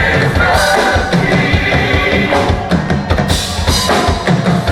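Live gospel band playing an instrumental passage, drum kit with kick and snare hits driving a steady beat under bass and keyboards.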